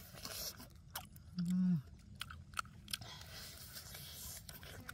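A person eating grilled chicken: wet chewing and biting with scattered sharp mouth clicks. About a second and a half in, a short low hummed "mm" that drops in pitch as it ends.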